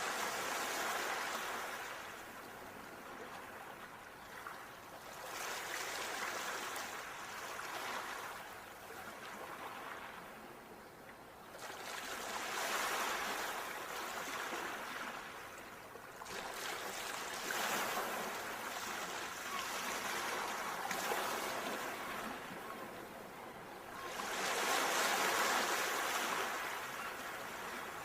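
Sea waves breaking on a shore, each wash swelling up and dying away again about every four to six seconds.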